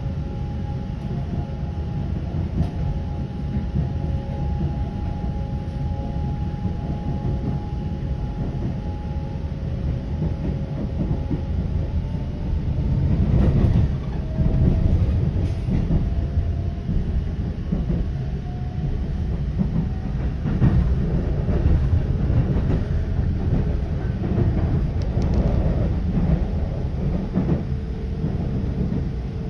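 Moving train rolling through a station yard: a steady rumble of wheels on rail with a faint whine, broken by louder clickety-clack as the wheels cross track joints and switches, once about halfway through and again later.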